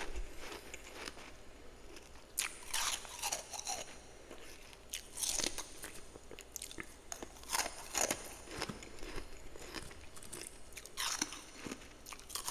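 A person biting and chewing freezer frost close to the microphone: clusters of crisp crunches about every two to three seconds, with quieter chewing in between.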